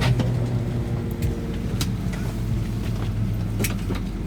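Steady low hum inside a Boeing 737-800's cabin on the ground after landing, with a few faint clicks.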